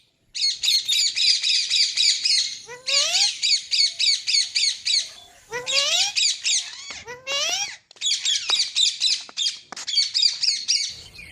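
Pet green parrot calling in fast, repeated high squawks, about six or seven a second, in four long runs with short breaks, with a few rising, sweeping calls where the runs begin.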